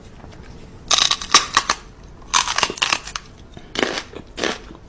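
Crunching in three short bursts of rapid crackly crunches.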